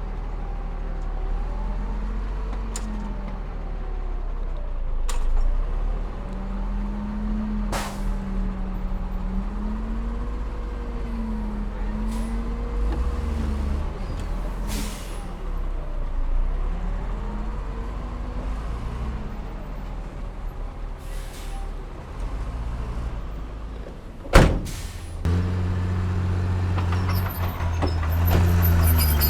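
Heavy diesel engine of earthmoving machinery at work, its pitch rising and falling again and again as it takes and sheds load. There are a few short clanks along the way and one loud sharp burst about four-fifths of the way through, after which the engine runs deeper and louder.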